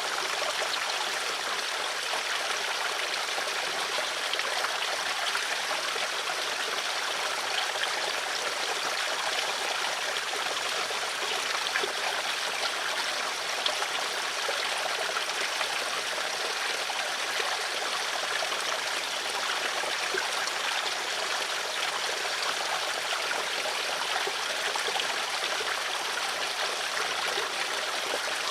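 Flowing stream water, a steady even rush and trickle with no low rumble.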